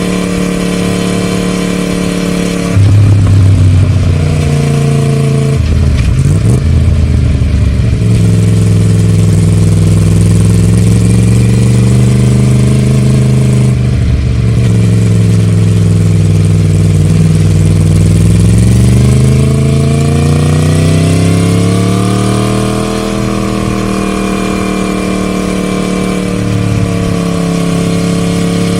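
Yamaha MT-10 Gen 2's crossplane inline-four engine, breathing through a Scorpion decat pipe and the stock silencer, pulling on the road. It runs steadily at first, then gets louder as the throttle opens about three seconds in, and the revs fall and climb again several times through the gears.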